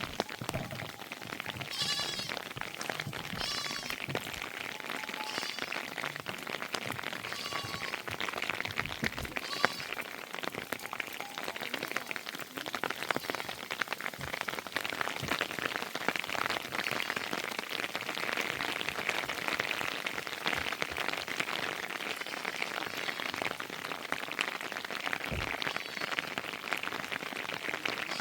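Heavy rain falling steadily, with many small drip impacts. Sheep bleat several times in roughly the first ten seconds, each a short wavering call.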